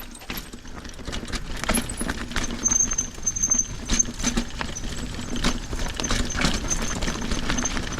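Mountain bike rattling and clattering over rough trail, with many irregular knocks and clicks and a faint high squeak that comes and goes.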